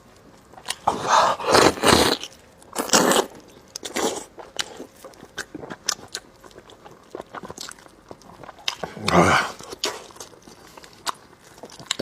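Close-miked eating of braised pork leg: wet chewing and lip-smacking with many sharp mouth clicks, and louder bursts of noisy eating about a second in, about three seconds in, and near nine seconds in.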